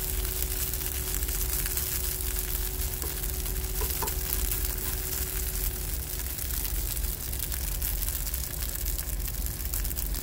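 Shredded hash browns sizzling steadily in butter in a nonstick frying pan, with a couple of faint clicks about three to four seconds in.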